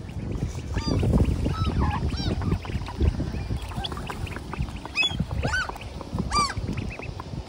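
Gulls calling again and again in short, arched cries, with strong wind rumbling on the microphone underneath.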